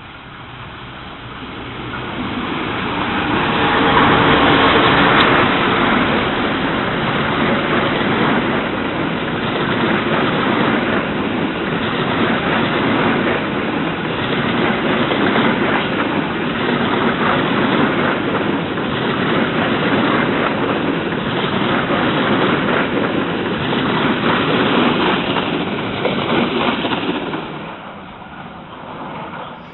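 Diesel-hauled passenger train passing close by: the sound swells as the locomotive goes past about four seconds in, then a long run of coach wheels rumbling and clattering on the rails, fading near the end as the last coach leaves.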